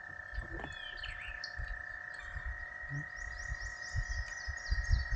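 Frogs trilling in a steady high chorus, with a bird singing a quick run of repeated falling chirps starting about three seconds in, over scattered low thumps.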